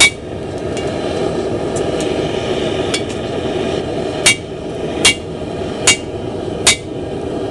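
Hand hammer striking hot steel on an anvil, drawing out the bit of an axe head: one ringing blow at the start, a few light taps, then five even blows a little under a second apart in the second half, over a steady rushing noise.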